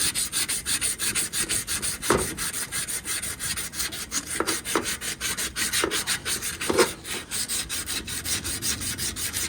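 Sandpaper rubbing copper refrigerant tubing in quick, even back-and-forth strokes, several a second, with a few brief squeaks. The copper is being cleaned before the filter drier is cut out, so no debris gets inside the line.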